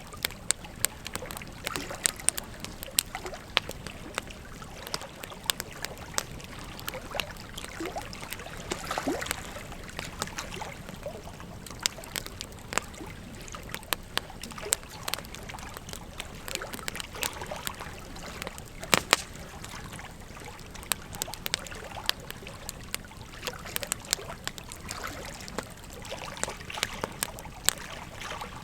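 Wood fire crackling with frequent sharp pops over the steady rush of river water; one pop about two-thirds of the way through is the loudest.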